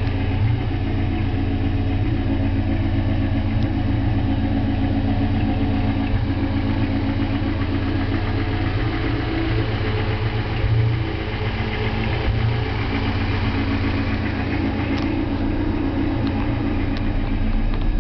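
A 1985 Toyota 4Runner's four-cylinder engine idling steadily, with a few faint clicks near the end.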